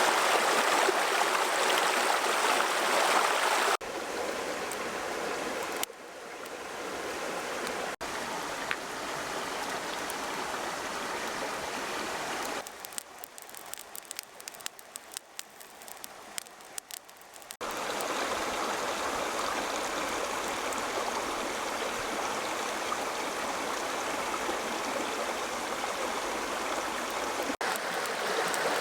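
Steady rushing of running water, like a stream, across several edited shots. A quieter stretch in the middle has scattered small clicks and pops.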